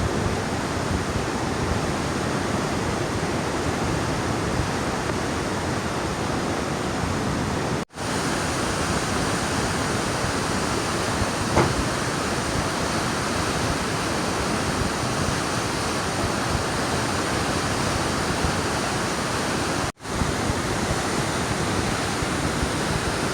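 Steady rush of a waterfall's falling water, a constant even roar. It drops out for an instant twice, about a third of the way in and near the end.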